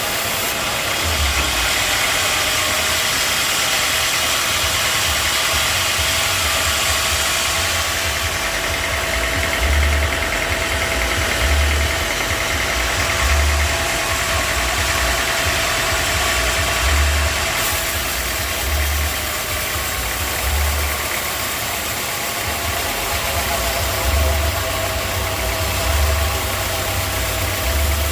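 Sawmill machinery running steadily, with a steady whine over a wide noisy hiss and low thuds recurring about every two seconds.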